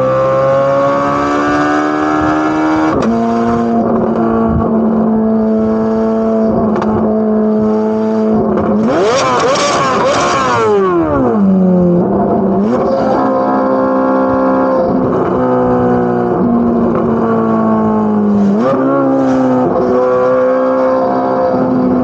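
Corvette C8 Z06's flat-plane-crank 5.5-litre V8 running at part throttle, its pitch rising slowly and then dropping suddenly about three seconds in. Near the middle it revs sharply up and falls back, and it picks up again twice more later on.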